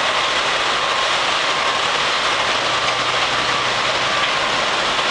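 Garbage truck's diesel engine running, a loud, even mechanical noise with a faint steady whine.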